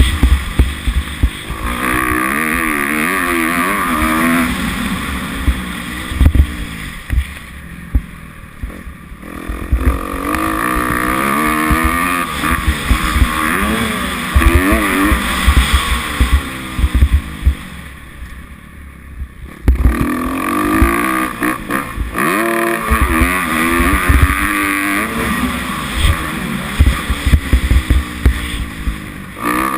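Kawasaki 250F four-stroke single-cylinder motocross engine revving up and falling back over and over, heard close up from an onboard action camera. The engine drops off throttle twice, about eight and eighteen seconds in, and sharp low thumps and wind buffeting hit the microphone throughout.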